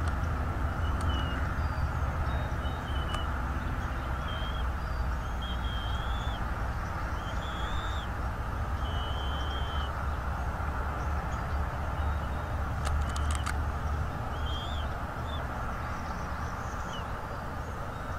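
Short, high bird calls, one every second or so, over a steady low rumble and hiss, with a few sharp clicks about thirteen seconds in.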